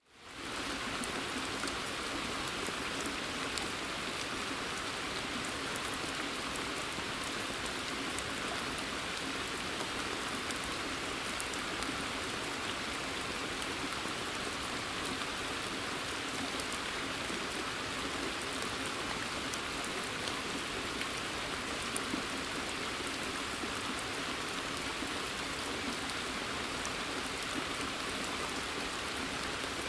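Steady rain falling in a forest and onto a pond's surface, an even hiss with individual drops ticking on top. It fades in over the first half second.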